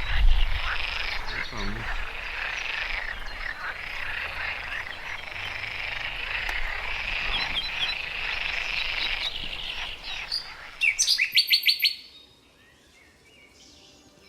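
A dense chorus of frogs calling, with bird chirps mixed in. About eleven seconds in comes a loud, rapid run of evenly spaced chirps lasting under a second, after which the chorus drops away to quiet.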